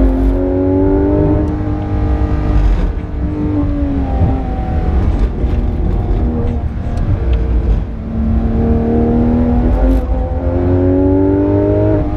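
Porsche 991.2 GT3 RS's naturally aspirated flat-six heard from inside the cabin at speed: the engine note climbs, falls away from about two seconds in as the car slows, then climbs steadily again under acceleration over the last four seconds.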